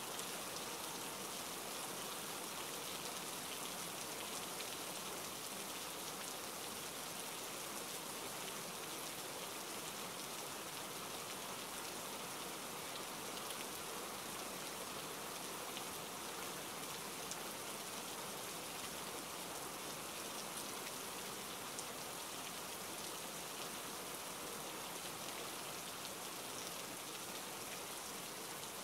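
Rain falling steadily: an even hiss with faint, scattered drop ticks.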